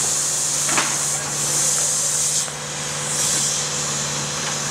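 Track maintenance machinery running steadily with a low engine hum, under a loud high hiss that fades and swells again, and a single sharp knock about a second in.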